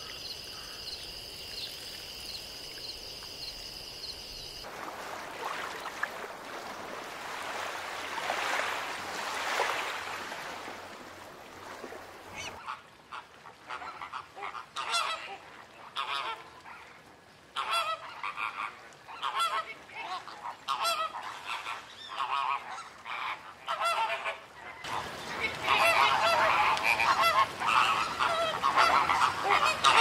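Birds calling in short, repeated harsh calls that build into a dense chorus of many birds near the end. Before them come a steady high buzzing for a few seconds and then a rushing noise.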